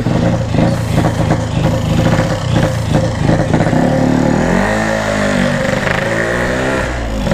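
Yamaha RX-King's 135 cc two-stroke single-cylinder engine running as the motorcycle is ridden. The revs drop about four and a half seconds in, climb again, then hold fairly steady.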